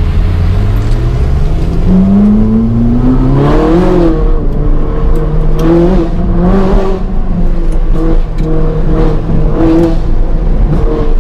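Ferrari 458's V8 engine accelerating hard, its note climbing steadily over the first few seconds, then rising and dropping back several more times.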